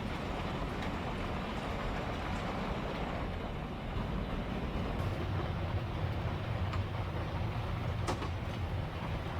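Typhoon wind buffeting the kei-truck camper with driving rain, a steady deep rumble and rush that swells about four seconds in, with a few light taps and knocks.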